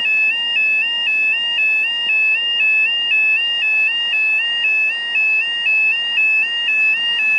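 Level crossing warning alarm sounding a two-tone yodel, flipping evenly between a higher and a lower pitch a few times a second, as the crossing stays closed for an approaching train.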